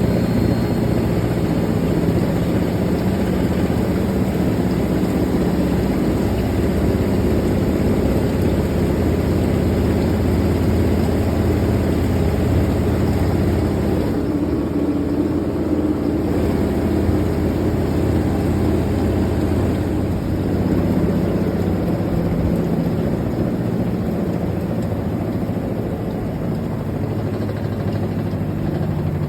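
Fisher & Paykel GW712 top-loading washing machine running with a steady motor drone and hum, as in a spin, with a slight shift in pitch about two-thirds of the way through.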